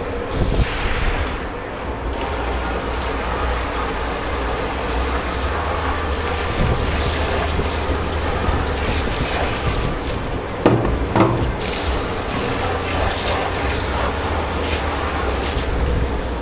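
Commercial kitchen dish pit: a steady low machine drone with rushing water, and a few sharp clatters of dishware, once about half a second in and twice around eleven seconds in.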